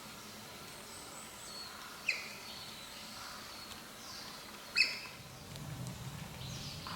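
Wild birds calling in the forest: two sharp, short calls about two and five seconds in, with fainter high chirps near the start. A low hum joins near the end.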